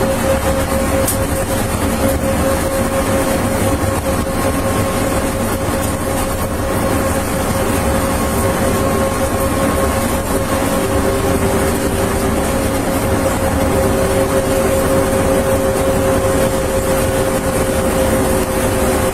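Steady vehicle cabin noise: an even rumble with a constant droning hum.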